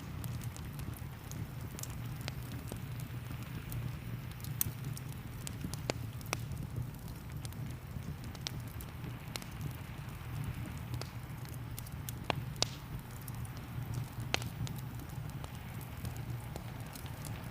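Wood fire crackling, with a steady low roar under scattered sharp pops and snaps, and a soft hiss of rain behind it.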